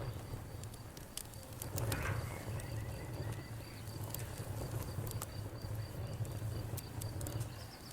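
Wood fire crackling, with scattered sharp pops and snaps over a steady low rumble, and a somewhat louder flare of crackle about two seconds in. A high, even pulsing chirp runs behind it, like a cricket.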